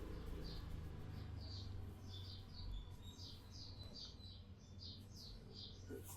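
Small birds chirping in the background: short high chirps, several a second, over a low steady hum, with a single soft click near the end.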